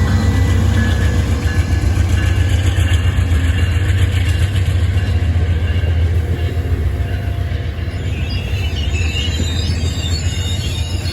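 Amtrak passenger train rolling past at close range: a steady, loud low rumble of cars and wheels on the track. From about eight seconds in, high-pitched squealing from the wheels on the rail joins it.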